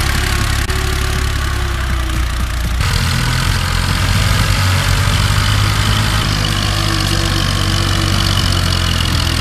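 Tractor diesel engine running steadily under load, a deep rhythmic chug, its pitch shifting slightly about three seconds in.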